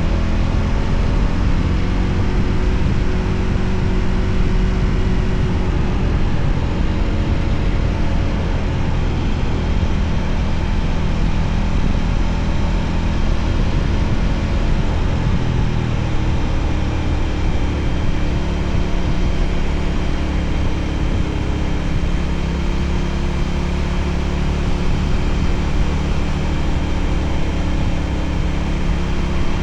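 Motorcycle engine running steadily while riding, under a constant rush of wind noise. The engine's pitch drifts slightly up and down with speed.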